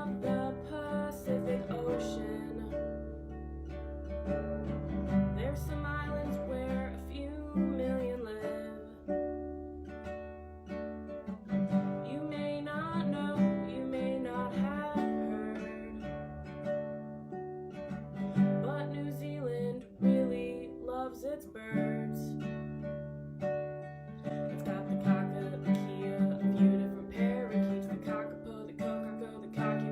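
Music: a strummed acoustic guitar playing chords, with a singing voice at times.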